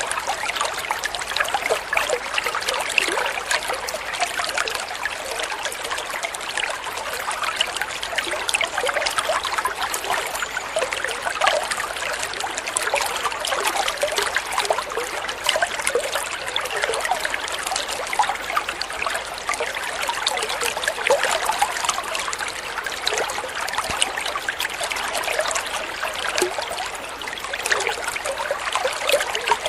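Flowing water trickling and babbling steadily, a continuous dense patter of small splashes.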